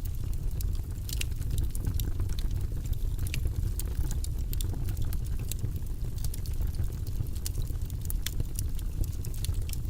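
Wood fire burning in a fireplace: a steady low roar with many quick, irregular crackles and pops.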